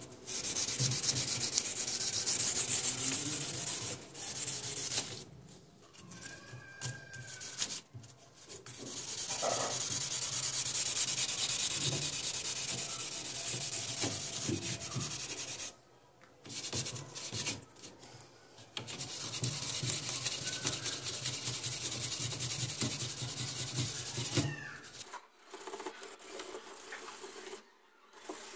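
Sanding a car grille: a scratchy rubbing in several long bouts, with short breaks of a few seconds between them.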